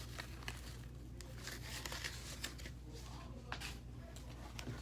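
Rustling and crinkling with scattered small clicks as a wig and its packaging are handled.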